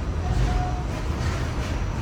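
Steady low rumble inside an R46 New York City subway car. A short single tone sounds about a quarter second in.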